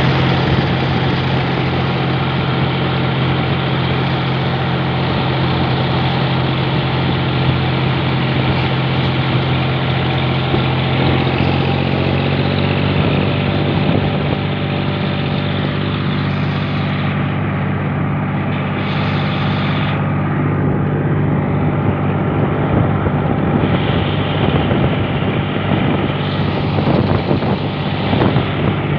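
John Deere 5045 tractor's three-cylinder diesel engine running steadily while driving at road speed, its note shifting slightly about twelve seconds in.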